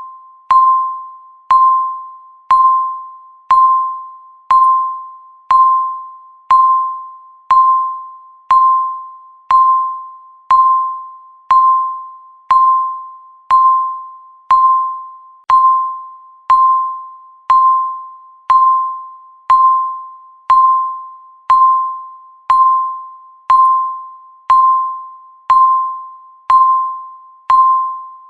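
A countdown timer's electronic tick, one short, ringing, bell-like ping a second, each fading quickly, in a steady, unbroken rhythm.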